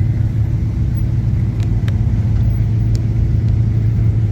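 A car engine idling with a steady low rumble that does not rise or fall, with a few faint ticks over it.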